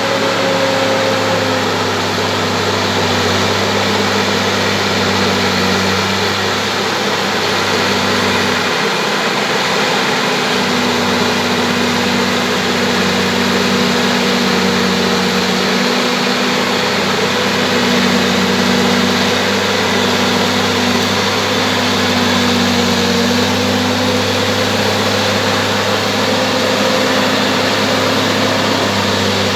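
Bulldozer's diesel engine running steadily under continuous noise, its tone holding without revving up or down.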